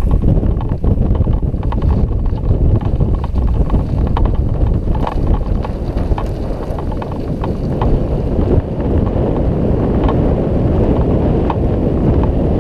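Strong wind buffeting the microphone, a loud, steady low rumble, with scattered light knocks through the second half.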